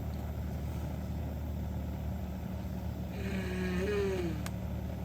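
A steady low engine-like hum. About three seconds in, a short wavering pitched sound, then a single sharp click.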